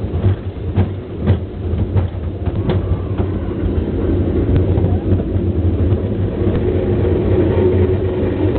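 Roller coaster train rumbling along its steel track, with a few sharp clanks in the first three seconds and a steady hum setting in about two thirds of the way through.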